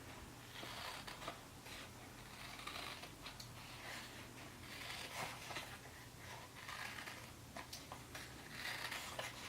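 Scissors cutting construction paper: faint snipping in short runs that come about every two seconds, with a few small clicks.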